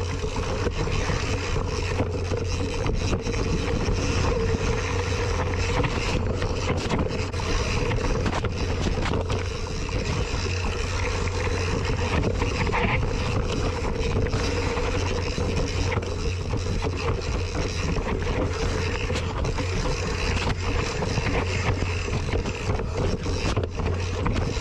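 Mountain bike ridden down a trail: wind buffeting the action camera's microphone, with the bike rattling and knocking over rough ground.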